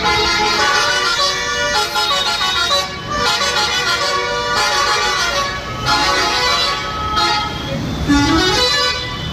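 Vehicle horns tooting repeatedly in road traffic over the steady drone of a moving bus, with music mixed in.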